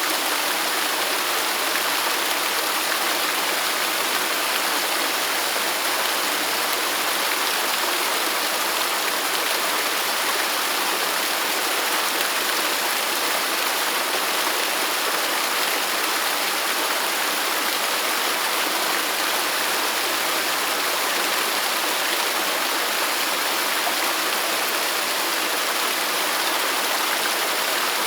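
Waterfall running, a steady, even rush of falling water with no change.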